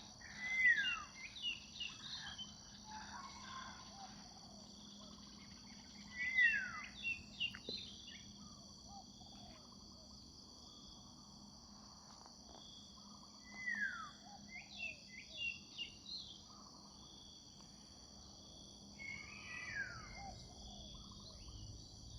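Rural morning chorus: a steady high-pitched drone of insects, over which a bird calls four times, about every six or seven seconds. Each call is a clear downward-sliding whistle followed by a run of short chirps.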